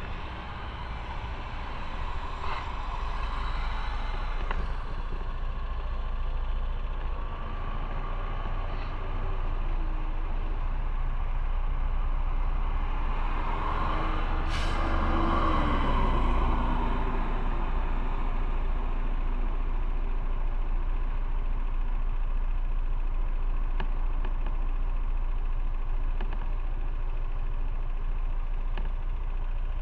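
Motorcycle riding in road traffic: a steady rumble of engine and wind noise, with a brief sharp hiss about halfway through and an engine note that drops a little just after it.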